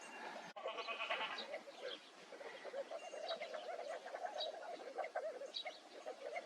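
A group of desert birds calling in a dense chatter of short, rapidly repeated notes, after an abrupt break about half a second in.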